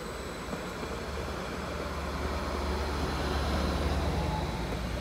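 Greater Anglia Class 755 (Stadler FLIRT) bi-mode train passing close by on diesel power: a steady rumble of wheels on rail, with a low drone that swells about two seconds in.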